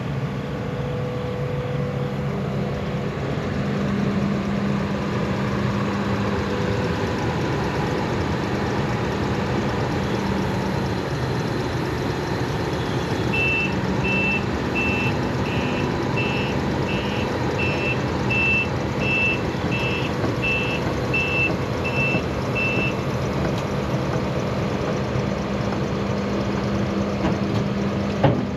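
Case CX220 excavator's diesel engine running steadily as the machine is driven off a lowboy trailer. For about ten seconds in the middle a travel alarm beeps, about one and a half beeps a second. A couple of sharp knocks come near the end.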